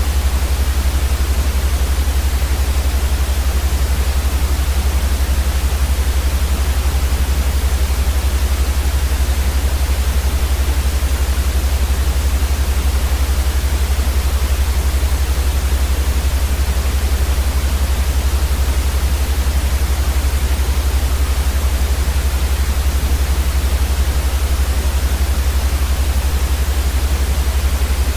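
Continuous white noise for sleep: an even, unchanging hiss over a strong steady low rumble.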